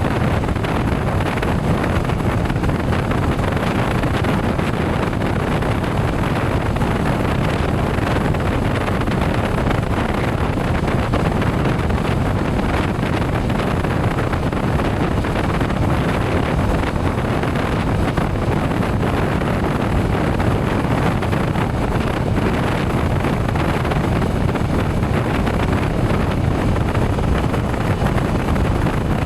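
Steady wind rushing over the microphone of a motorcycle riding at speed, with the motorcycle's running and road noise underneath.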